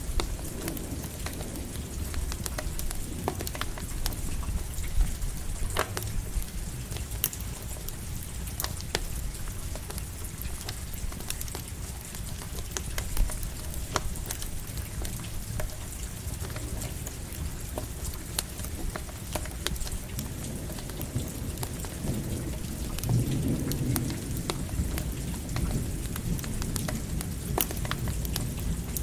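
Steady rain together with a crackling campfire, sharp pops scattered throughout, over a low rumble of thunder that swells about three-quarters of the way through.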